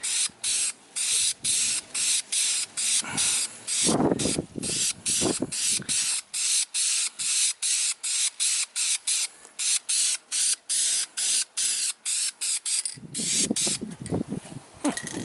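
Aerosol spray-paint can of Krylon green enamel hissing in rapid short bursts, about three a second, with a couple of dull knocks about four and five seconds in.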